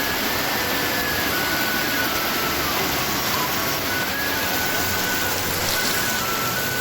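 Steady rain noise from a storm downpour, with a thin melody of held notes stepping up and down in pitch laid over it.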